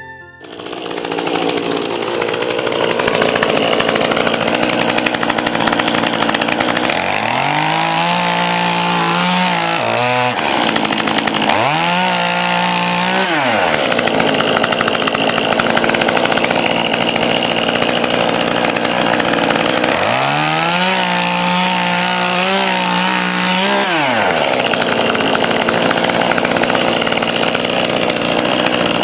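Two-stroke chainsaw running, throttled up to full speed three times for a few seconds each and dropping back in between, as it cuts scrap wood into firewood lengths; a fourth rev-up starts right at the end.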